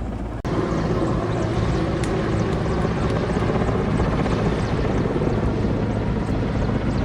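Helicopter running steadily, its rotor giving a low rhythmic chop over the engine noise. The sound drops out for an instant about half a second in, then resumes slightly louder.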